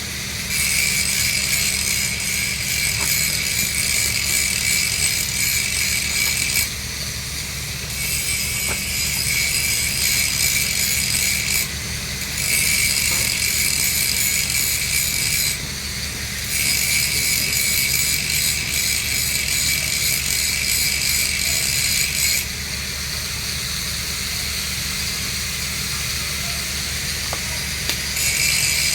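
Welding arc on a steel pipe joint, sizzling in runs of several seconds that break off abruptly for about a second and then restart, over a steady low hum.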